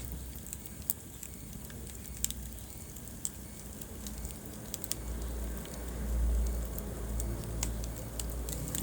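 Wood fire burning in a fireplace: scattered sharp crackles and pops over a low rumble of flames that grows stronger about halfway through.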